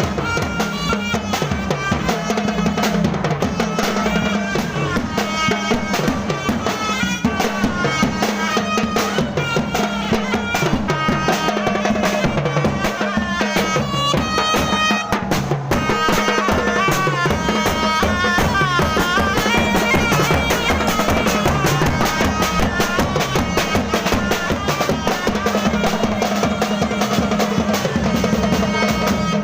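Thai procession band music: drums keeping a steady beat under a continuous melody.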